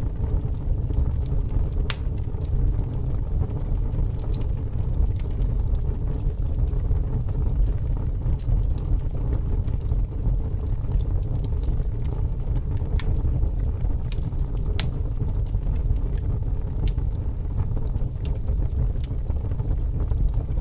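Fire burning: a steady low rumble with scattered sharp crackles.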